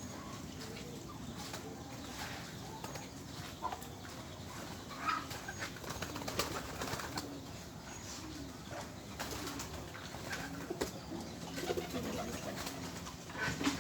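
Domestic pigeons cooing repeatedly, low wavering calls, with scattered short clicks and rustles of movement.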